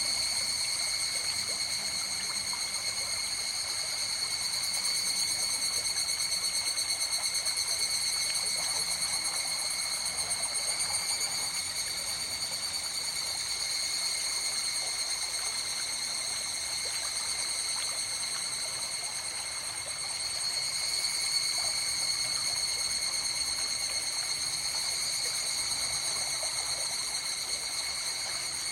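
River water running steadily, with a continuous chorus of insects trilling at several high pitches.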